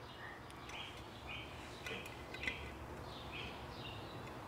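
Faint bird chirps in the background, short calls repeating every half second or so, with a light metallic click about two and a half seconds in as a steel jig hook is set into the aluminium mold.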